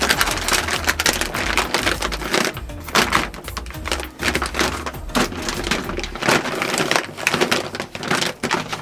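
Woven grain sack being handled and stapled to a wooden coop frame: irregular sharp snaps and crinkling, with background music under it.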